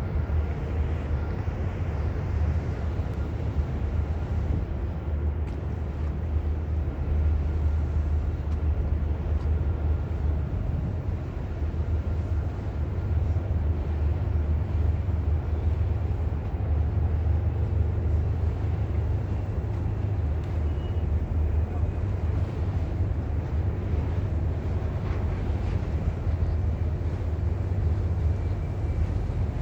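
Diesel engines of a Fjellstrand 40 m Flying Cat catamaran ferry running at low power while berthing: a deep, steady drone.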